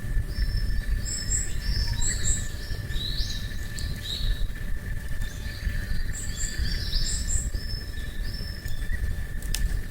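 Wild birds chirping and calling in short, repeated whistled notes, several overlapping, over a steady thin high tone and a constant low rumble, with one or two sharp clicks.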